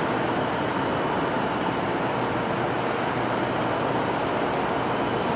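Siemens Charger diesel-electric locomotive idling steadily at a standstill.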